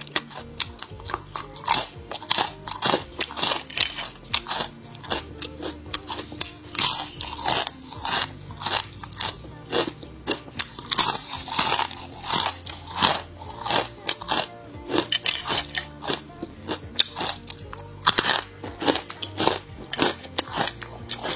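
Crunching and chewing of crispy dried fruit and vegetable chips such as banana and okra crisps, picked up close by a clip-on mic: a quick, irregular run of sharp crunches, several a second, with faint background music underneath.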